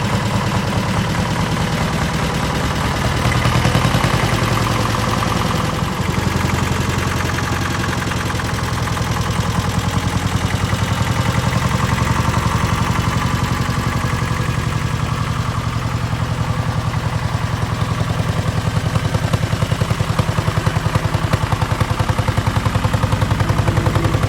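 1956 Allgaier AP22 Porsche-Diesel tractor's air-cooled two-cylinder diesel engine running with a steady, rapid chugging, rising a little a few seconds in.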